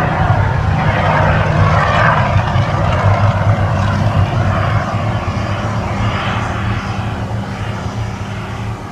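Mirage volcano show rumbling deeply and steadily under a hissing wash of spouting water, slowly fading as the eruption winds down.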